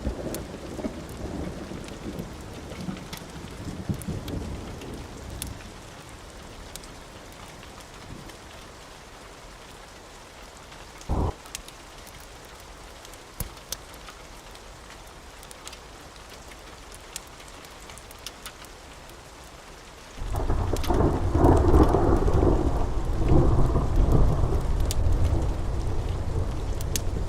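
Steady rain with thunder: a low rumble fades away over the first few seconds, there is a short thud about eleven seconds in, and near the end a loud thunderclap breaks suddenly and keeps rumbling. Faint sharp ticks are scattered throughout.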